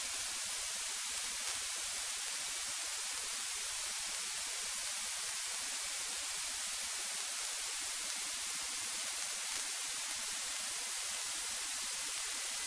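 Steady electronic hiss from an aircraft's radio and intercom audio feed, with no one transmitting.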